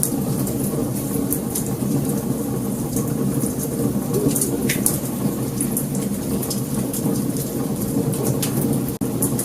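Wood fire crackling: scattered sharp pops and snaps over a steady low rushing burn.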